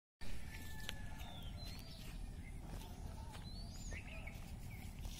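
Birds chirping now and then, short rising and falling calls, over a steady low background rumble, with a few faint clicks.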